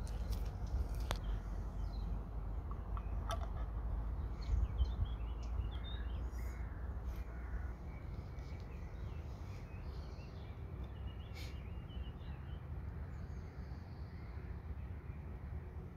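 Outdoor ambience: birds calling now and then over a steady low rumble, with a few sharp clicks in the first seconds.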